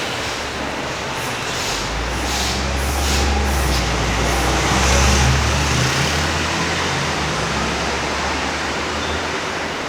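Street traffic with a heavy road vehicle's diesel engine rumbling past, swelling to its loudest about five seconds in and fading near the end, over a steady haze of other traffic. A few short hisses sound in the first four seconds.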